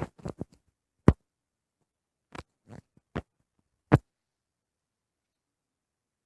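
A few short, sharp knocks and clicks, the loudest about a second in and about four seconds in, with a cluster of smaller clicks between, and dead silence between them.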